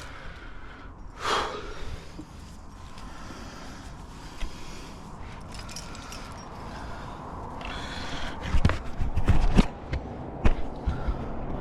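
A climber's sharp breath about a second in, then a cluster of sharp knocks and scrapes with low thuds about two-thirds of the way through.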